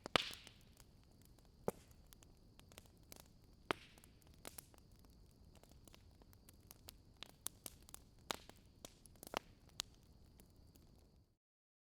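Wood fire crackling faintly, with irregular pops and snaps over a steady hiss. It cuts out to silence shortly before the end.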